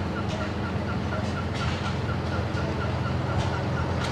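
Steam engine running steadily with a low hum, and a small high squeak repeating evenly three or four times a second in time with its running, with a few scattered clicks.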